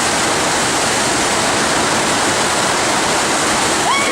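FlowRider surf simulator's pumped sheet of water rushing steadily over the riding surface, a loud, even roar of water.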